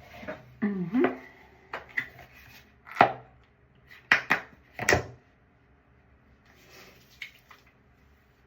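A few sharp clacks of hard objects knocking, the loudest about three seconds in, then a quick pair a second later and one more near five seconds.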